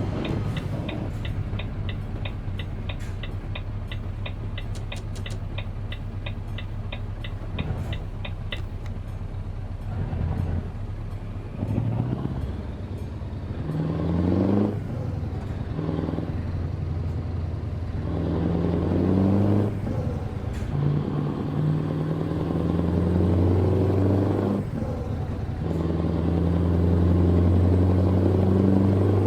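Truck's diesel engine heard from the cab. For the first eight seconds or so the turn-signal relay ticks rapidly and evenly over the engine. After that the engine pulls away, rising in pitch several times with a drop at each gear change.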